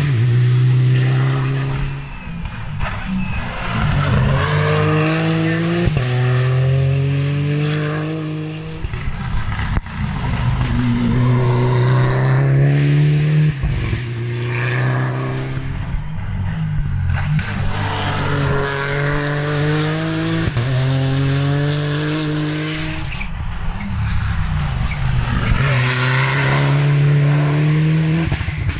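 Rally cars at full throttle on a stage, engines climbing in pitch and dropping back with each gearshift, over and over, as one car after another accelerates through the gears.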